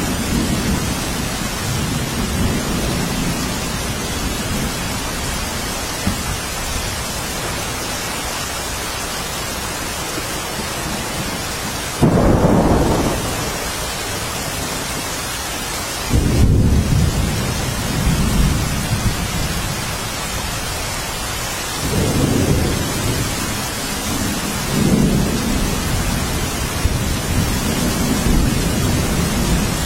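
Steady rain falling in a thunderstorm, with low rumbles of thunder: one starts abruptly about twelve seconds in, another about four seconds later, and more roll through the second half.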